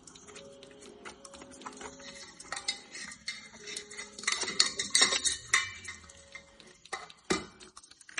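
Irregular clicking, scraping and clinking against a metal pot, busiest and loudest in the middle, with one sharp knock near the end.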